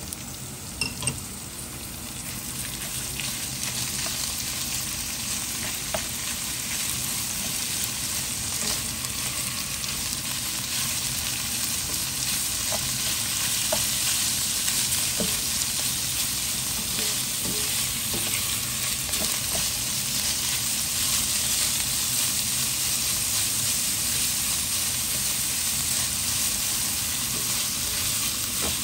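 Minced pork frying in oil in a non-stick wok, a sizzle that builds over the first few seconds and then holds steady, while a spatula stirs and scrapes the meat around the pan. Two short knocks sound about a second in.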